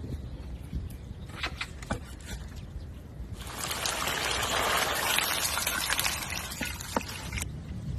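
A few light clicks, then liquid pouring in a steady trickle for about four seconds, starting about three seconds in.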